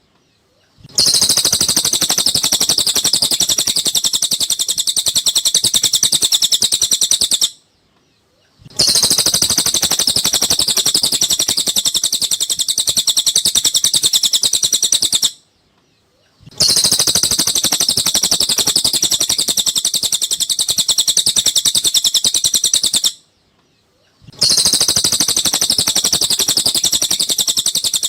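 Recorded song of a cililin bird played on a loop as masteran: dense, rapid, high chirping phrases, each about six to seven seconds long, cut by a second of silence about every eight seconds.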